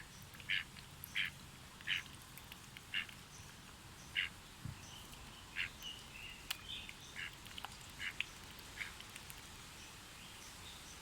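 Ducks quacking: short calls repeated about once a second, with some thinner, higher calls mixed in during the second half.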